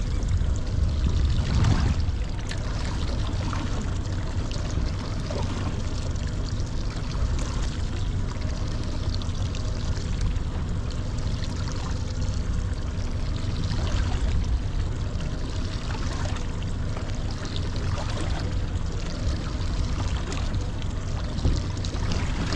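Sea water sloshing and trickling against a small boat's hull, over a steady low rumble.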